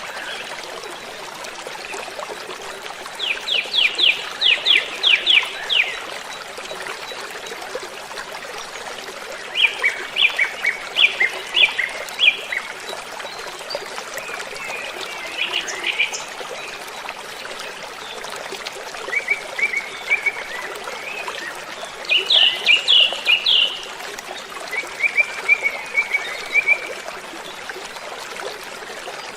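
Steady rush of falling water from a waterfall, with a songbird singing short, rapid trilled phrases about every three to six seconds.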